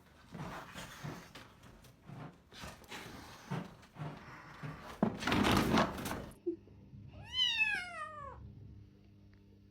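Domestic cat giving one long meow that falls in pitch, about seven seconds in. Before it come scattered knocks and thumps and a loud noisy rustle about five seconds in.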